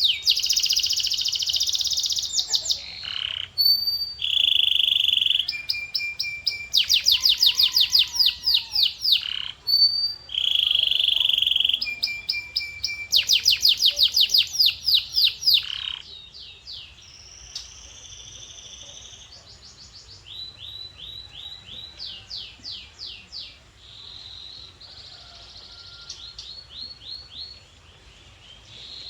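Male canary singing: fast trills of rapidly repeated notes alternating with short held whistled notes. About halfway through, the song turns noticeably quieter, with shorter phrases.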